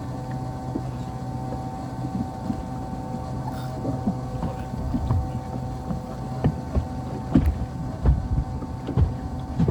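A motorboat's engine runs with a steady hum. Irregular low thumps come through, stronger in the second half.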